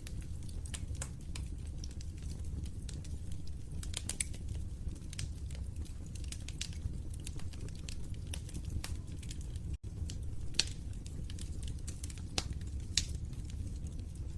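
Wood fire crackling: a steady low rumble of burning with irregular sharp pops and crackles scattered throughout, and a momentary drop-out about ten seconds in.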